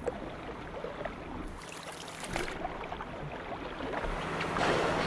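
Water sloshing and splashing around a boat hull, over a steady low hum. A louder rush of water comes about two seconds in, and the water noise swells near the end.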